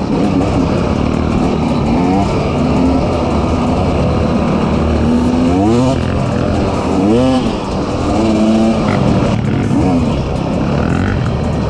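Off-road vehicle engine being ridden hard, its pitch climbing and dropping back again and again as the throttle is opened and closed through gear changes, with some six or seven sharp rises over the stretch.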